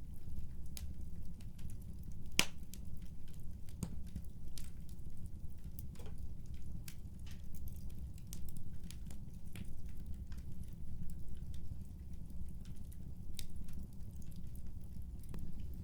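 Wood fire crackling in a fireplace: a steady low rumble of flames with irregular sharp pops and snaps, one louder pop about two seconds in.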